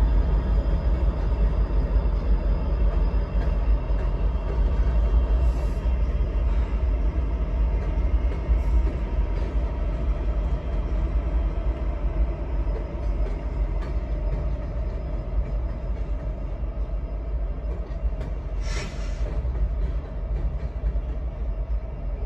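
Freight train rolling past at close range: a steady, heavy low rumble that slowly fades, with one short, sharp noise about nineteen seconds in.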